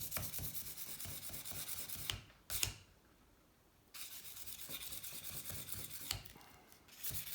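Hand sanding with fine 600-grit sandpaper on a sanding block: quick back-and-forth rubbing strokes. A couple of knocks come about two seconds in, then the rubbing stops for about a second before starting again.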